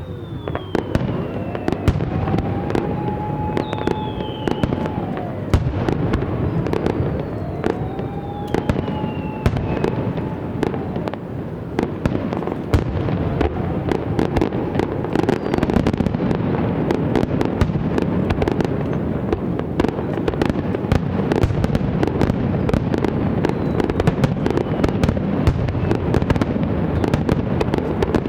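Fireworks barrage: continuous booms under dense, rapid crackling. During the first ten seconds, whistling shells glide in pitch.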